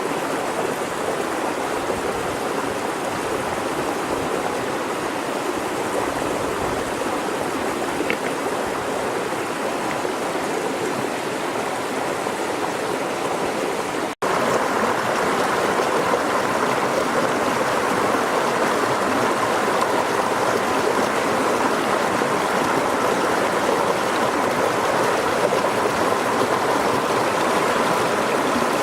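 River water running steadily, a continuous rush. It breaks off for an instant about halfway and comes back a little louder.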